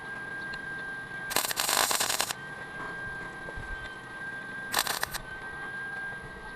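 Two short bursts of welding crackle as beads are laid on the inside of a cracked scooter brake drum housing, the first about a second long, the second about half as long. A steady high whine sounds underneath.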